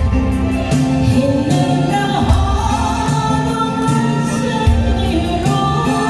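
A woman singing a Korean ballad over instrumental accompaniment with a steady, repeating bass line.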